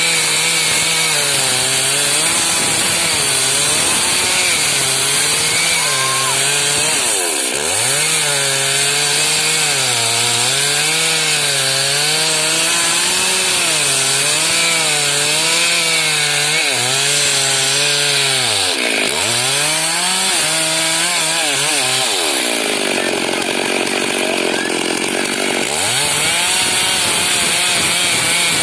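Stihl MS 382 single-cylinder two-stroke chainsaw running hard while cutting wood, its engine speed wavering under load. The speed sags sharply and picks back up a few times, the longest drop a little past the middle.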